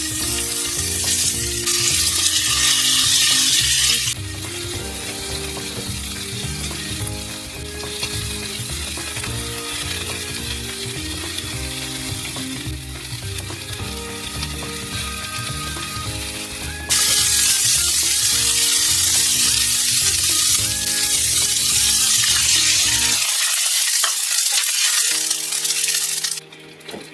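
Pork-belly-wrapped daikon sizzling in a frying pan. The sizzle is loudest at the start and again over the last third, then cuts off just before the end. Background music with a steady beat plays underneath.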